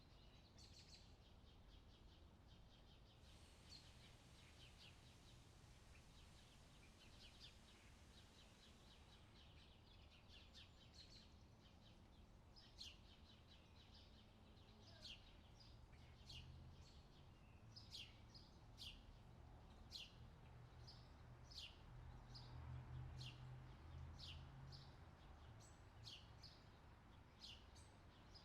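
Faint birdsong: many short, high chirps repeating, growing busier through the second half, over a soft low rumble that swells for a while in the middle.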